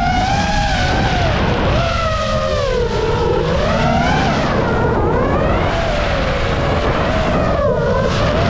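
Paramotor engine and propeller running, its pitch rising and falling again and again, over a heavy rumble of wind on the microphone.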